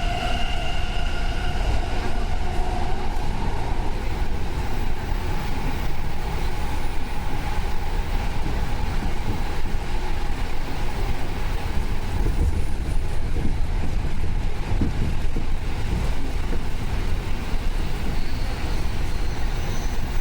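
Tokyo Metro 07 series subway train running through the tunnel, heard from inside the car: a steady rumble of wheels on rail. A whine from the traction motors fades out in the first couple of seconds.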